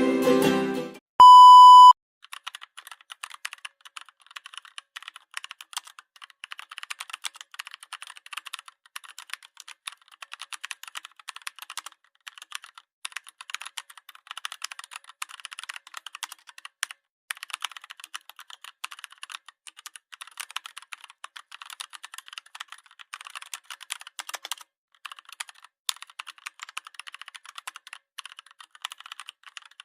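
A single loud beep lasting under a second, then rapid keyboard typing: a continuous run of light, tinny key clicks with a couple of brief pauses.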